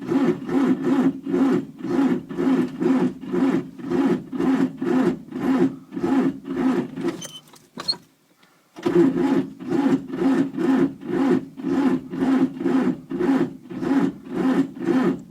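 Fiat 780 DT tractor's diesel engine being cranked over by its starter in slow, labouring turns, about two to three compression beats a second, without catching. The cranking stops for a moment about seven seconds in, then starts again. A cold engine on a battery without enough power to spin it fast enough to start.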